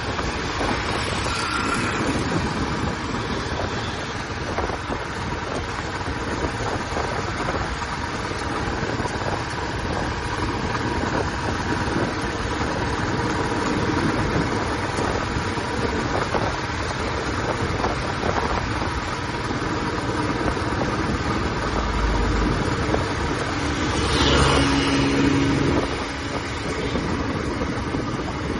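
Royal Enfield Classic 350's single-cylinder engine running steadily at road speed through its exhaust, under a dense wash of road and wind noise. Near the end, a brief steady pitched tone sounds over it for about two seconds.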